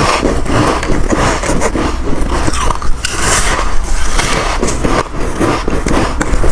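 Close-miked biting and chewing of soft white ice chunks: a continuous run of crisp, crackly crunches.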